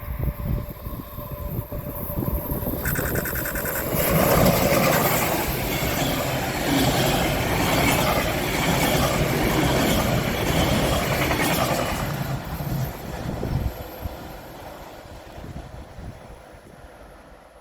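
A train passing on the line: its noise builds about four seconds in, stays loud for about eight seconds, then fades away.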